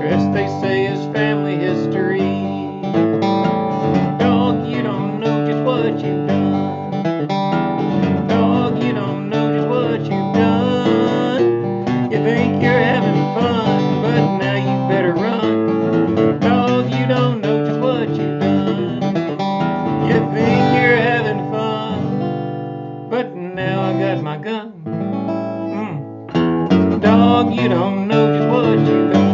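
Acoustic guitar playing an instrumental break, picked and strummed, dropping quieter a little past two-thirds of the way through and then coming back louder.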